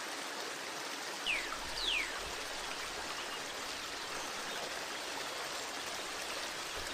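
Steady rush of a flowing stream, with two short high whistles sliding down in pitch, about a second and two seconds in.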